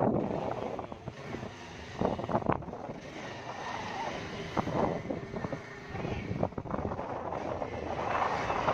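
Motorcycle riding along the road, its engine running under wind buffeting the microphone in irregular gusts.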